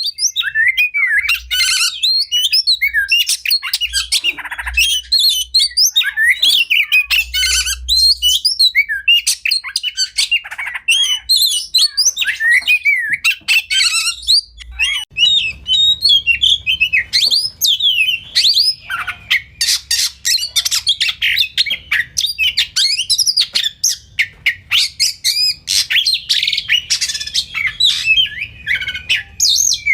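Oriental magpie-robin (kacer) singing continuously: a fast, varied run of whistled glides, chirps and harsher squawk-like notes with no pauses, the dense 'full fill' song used to train captive birds.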